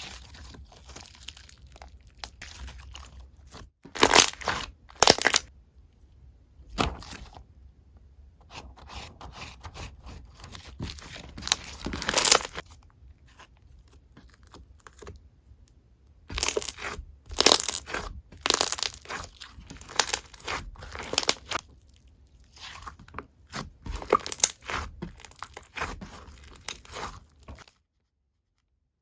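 Slime being squeezed and pressed by hand, giving irregular crunchy, crackling squishes, some short and some drawn out over a second. It stops abruptly near the end.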